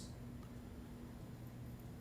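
Quiet room tone: a faint, even background hiss with a steady low hum and no distinct sounds.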